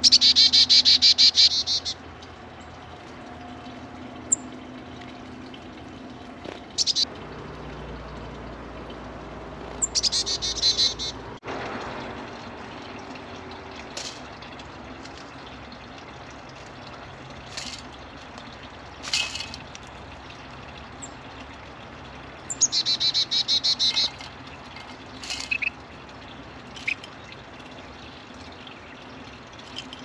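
Songbirds calling: a fast, high trill about two seconds long comes three times, near the start, about a third of the way in and again later, with short single chirps in between.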